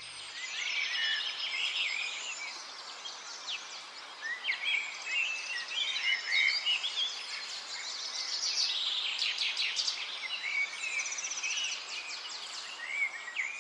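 Several songbirds chirping and singing, many short quick calls overlapping, over a steady outdoor hiss.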